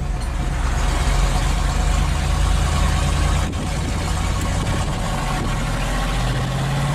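Ford F-150 pickup's engine running loud with its exhaust cut off and no mufflers, under way, with a brief dip in the sound about halfway through.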